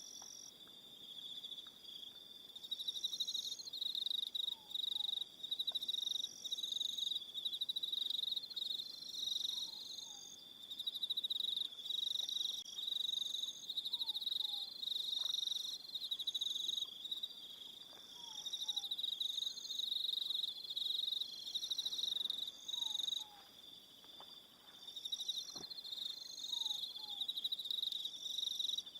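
Crickets chirping in fast pulsing trills that come in phrases a second or two long with short breaks between them. Faint pairs of short falling chirps recur every few seconds beneath them.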